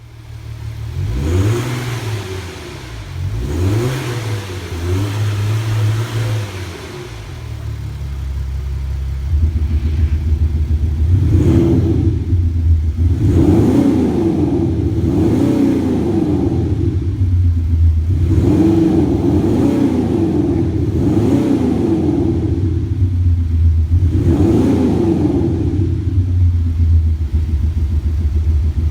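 Porsche Cayenne Diesel with a Maxhaust active sound booster, playing a synthetic Maserati-style exhaust note over the engine, being revved. Two quick blips of the throttle come near the start, then a steady, louder drone sets in with about six more revs rising and falling every two to three seconds.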